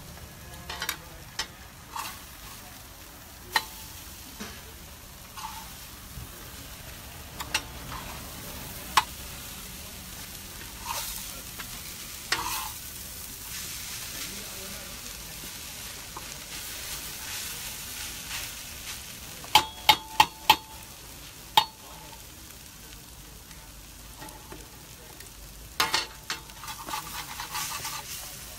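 Shredded hash browns with onions and bell peppers sizzling in a pan on a propane cooker, with a spatula scraping and clacking against the pan as they are stirred. A quick run of four or five taps comes about twenty seconds in.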